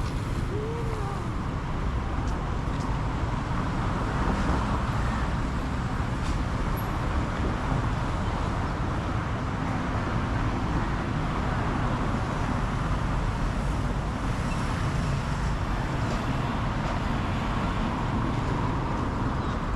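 Steady low rumble of motor traffic, with no breaks or distinct events.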